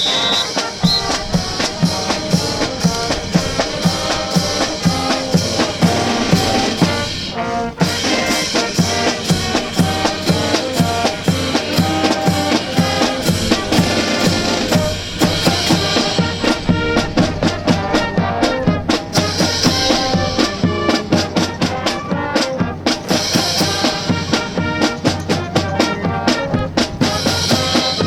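Brass band music with drums and a steady marching beat, with trumpets and trombones playing.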